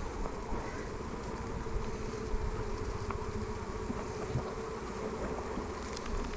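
A honeybee colony buzzing around an open hive, a steady hum.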